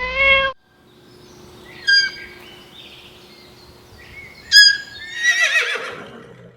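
A horse whinnying: a sharp high call about two seconds in, then a louder, longer quavering whinny that falls in pitch from about four and a half seconds. It opens with a short, different high-pitched animal call that cuts off within half a second.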